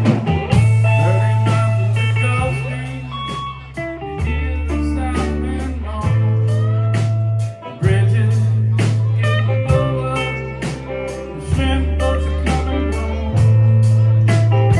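Live blues-rock band playing an instrumental passage: a guitar lead with bending notes over held bass notes and a steady beat of drums and cymbals.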